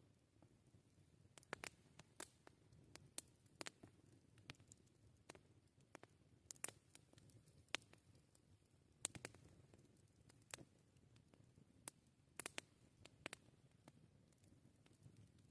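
Campfire crackling: sparse, irregular sharp pops and snaps from the burning wood over a faint low hiss.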